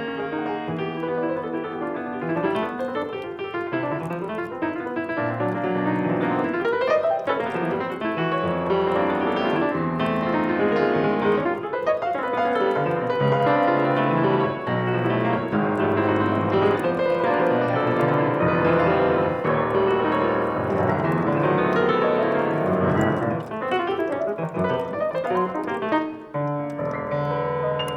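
Solo piano playing, a dense, continuous flow of overlapping notes over deep, held bass notes.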